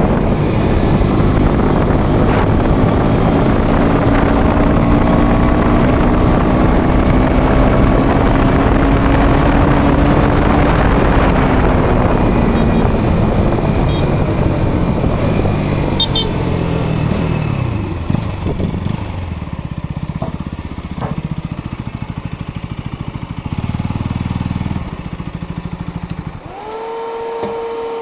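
Motorcycle riding with wind noise on the microphone, its engine note holding steady, then falling in pitch as it slows from about halfway through, then running quietly at low revs. Near the end a steady pitched tone starts.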